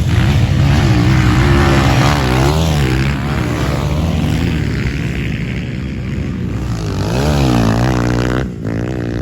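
Motocross bikes of the CG class, single-cylinder four-stroke engines, revving hard on the track, the engine pitch climbing and dropping again and again as they accelerate and shift or back off.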